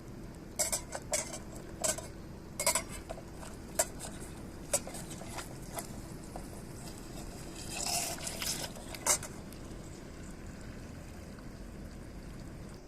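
Metal utensils clinking and scraping against a cast-iron skillet: a quick run of sharp clinks in the first few seconds, a few single clicks, a longer scrape a little past the middle and one last clink.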